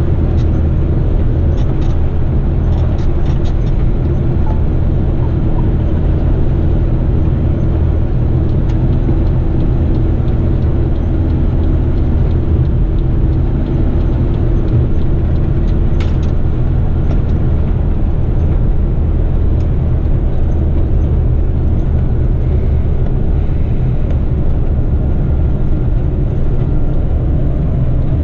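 Heavy eight-wheeler twin-steer rigid truck's diesel engine running steadily at cruise, heard from inside the cab with road noise. A brief click comes about halfway through.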